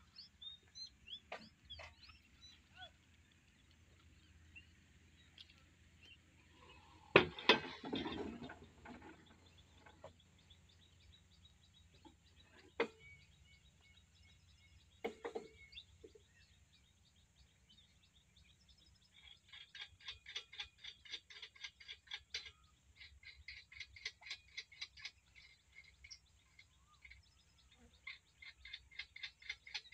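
Birds chirping, with a fast, even trill repeated in bursts of a few seconds through the second half. A loud clatter comes about seven seconds in, with a couple of single knocks a little later, from handling the pump's hose and fittings.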